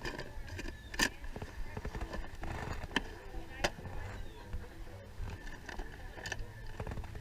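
Scattered sharp clicks and knocks of hard objects being handled, over a steady low hum.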